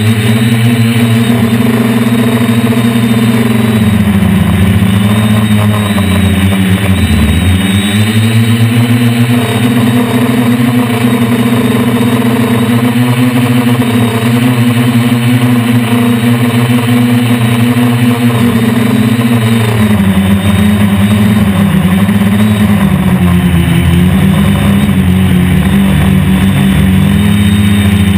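DJI Flame Wheel F450 quadcopter's brushless motors and propellers droning in flight. The pitch rises and falls constantly as the throttle changes, with deep dips a few seconds in and again a few seconds later.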